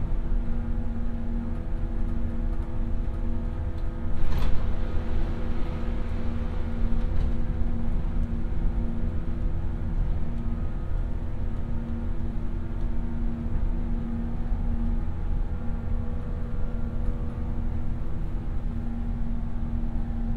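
Cabin noise of a JR West 117 series electric train running at speed: a steady low rumble of wheels on rail with a steady hum. A single sharp knock about four seconds in.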